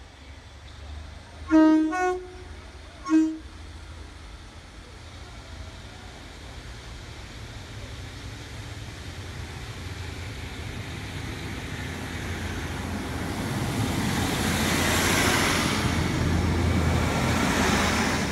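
Diesel multiple unit's two-tone horn sounded: a two-note blast, then a short single toot. The train's engine and wheels then grow steadily louder as it approaches and draws close alongside.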